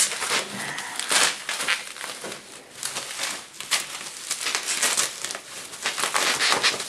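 Foam packing wrap being pulled open and handled: an irregular crinkling rustle with sharper crackles now and then.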